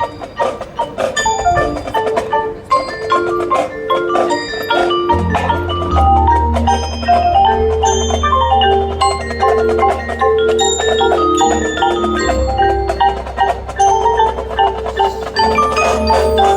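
Marching band front ensemble mallet percussion (marimba, xylophone and glockenspiel) playing a quick run of notes. Sustained held chords and a steady low bass tone enter about five seconds in.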